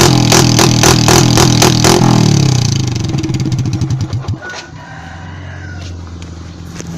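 Engine with a loud, open exhaust held at high revs, the exhaust banging sharply about four times a second: backfire pops of the kind that throw flames from the pipe. About two seconds in the revs drop away, and it settles into a quieter steady idle.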